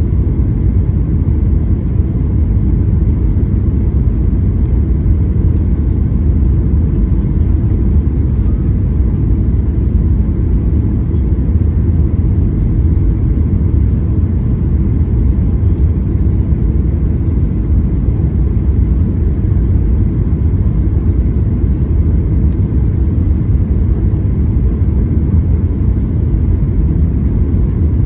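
Airliner cabin noise heard from inside the aircraft: a steady low rumble of engines and airflow, unchanging throughout.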